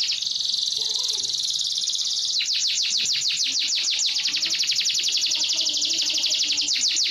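Yellow canary singing in long rapid trills: a rolling, buzzy trill, then from about two and a half seconds in a fast run of repeated down-slurred notes, about ten a second.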